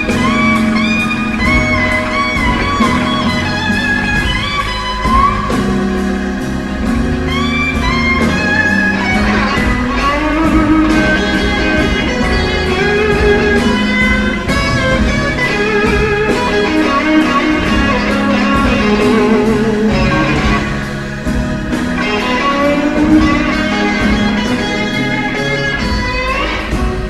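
Electric blues guitar solo with string bends and vibrato, over a steady beat.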